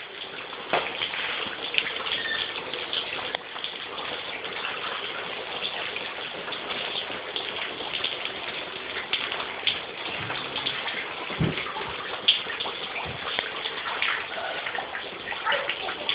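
Water leaking through a ceiling indoors, streaming and dripping down in a steady splashing hiss with many small drip ticks scattered through it.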